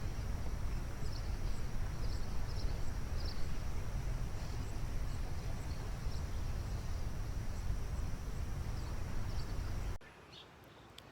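Outdoor creek-side ambience: a steady rushing noise heavy in the low end, with a thin steady high tone and faint scattered chirps over it. About ten seconds in it cuts off abruptly to a much quieter background with a few chirps.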